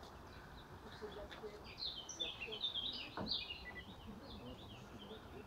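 A songbird singing a fast run of high, jumbled notes about two seconds in, lasting under two seconds, followed by a few scattered chirps.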